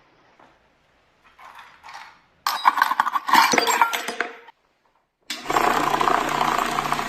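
Small metal parts clinking and rattling for about two seconds. After a short silence, a steady whirring noise with a low hum starts.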